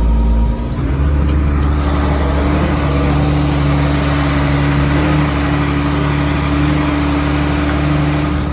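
Military truck's diesel engine running; about a second in the engine speed picks up and then holds steady at a higher pitch.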